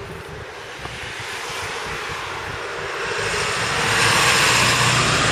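Engine noise of a passing vehicle: a low hum with a rushing sound, growing steadily louder and at its loudest near the end.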